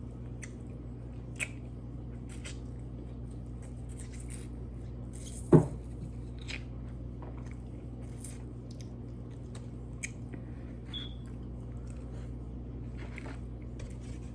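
Wet chewing and squishing of a seafood boil of crab being eaten by hand, with scattered small clicks and cracks over a low steady hum. A single loud knock comes about five and a half seconds in.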